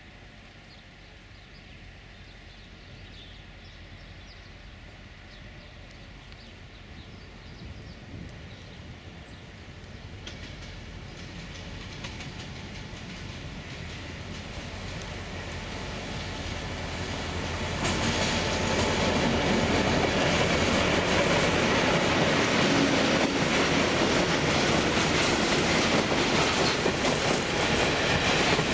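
Diesel locomotive 2062 202 and its train of tank wagons and a coach approaching and passing. The engine grows steadily louder, then from about two-thirds of the way in the train rolls by close, with wheels clacking over the rail joints.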